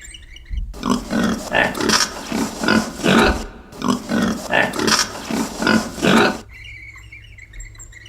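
Domestic pig grunting: a quick run of short grunts, several a second, stopping about six seconds in.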